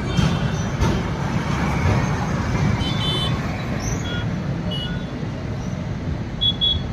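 Steady rumble and rush of a moving passenger train heard from inside the coach, mixed with road traffic noise from the street alongside. A few short high-pitched squeaks or beeps come about three seconds in and again near the end.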